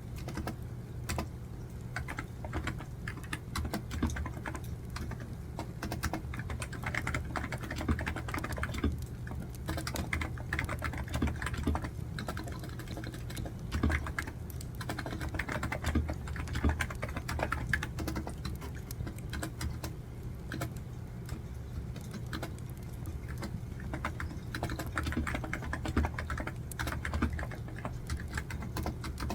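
Typing on a computer keyboard: a continuous patter of key clicks in fast runs, broken by short pauses.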